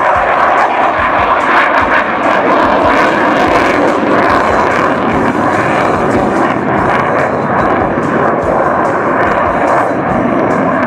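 Jet fighter flying a display, its jet engine noise loud and steady throughout.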